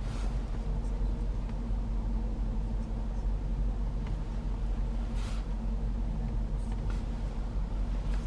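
Steady low rumble inside the cabin of a 2021 Range Rover Sport SVR with its 5.0-litre supercharged V8 idling. A faint tick comes about five seconds in.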